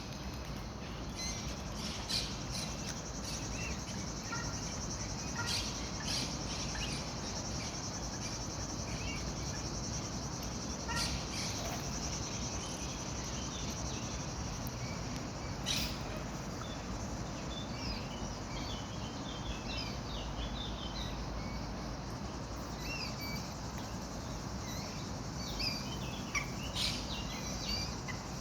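Outdoor ambience: a steady high insect trill, like crickets, that fades about halfway through, with many small birds chirping over a constant low background noise.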